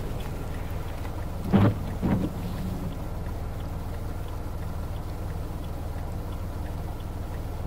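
Steady low rumble of a car standing with its engine idling, heard from inside the cabin, with two short knocks about a second and a half and two seconds in.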